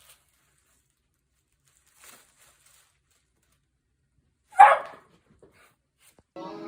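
A dog barks once, short and loud, about four and a half seconds in, with little else around it. Music begins near the end.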